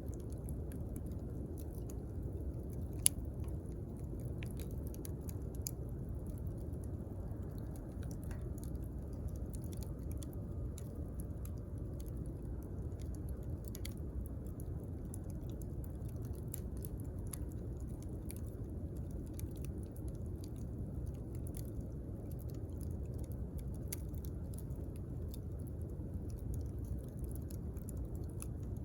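Wood campfire crackling: a steady low rush from the burning fire with frequent small pops and snaps, and one sharper pop about three seconds in.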